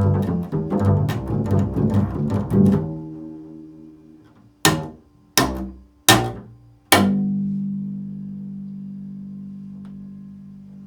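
Improvised solo music on a low-pitched string instrument: a quick run of notes that fades away, then four single sharp strikes under a second apart, the last left ringing out slowly.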